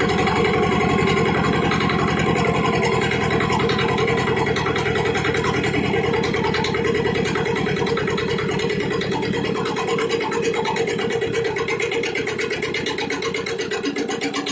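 Yanmar Prince YT500 tiller's diesel engine running with an even firing beat; after about ten seconds it slows and the beat becomes more distinct, settling toward idle.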